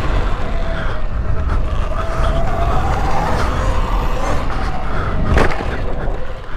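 An electric dirt bike being ridden, its motor whine wavering in pitch with the throttle over heavy wind rumble on the microphone. There is one sharp knock about five seconds in.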